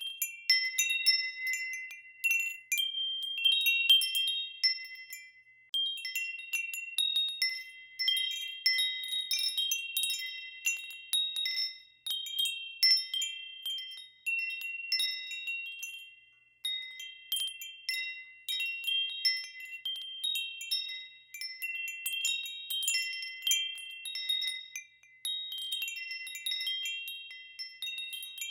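Metal wind chimes ringing in the wind, their high tubes struck irregularly several times a second and each note ringing on and overlapping the next.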